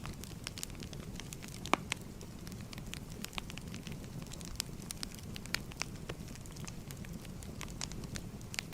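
Firewood logs burning: a steady low rumble with scattered sharp crackles and pops, the loudest a little under two seconds in.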